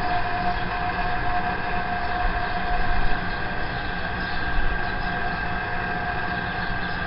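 Vaillant boiler running with a steady droning noise: two held tones over a low rumble, the lower tone fading near the end. The owner cannot pin this strange noise to any one part of the boiler, but it goes away when the air inlet is altered.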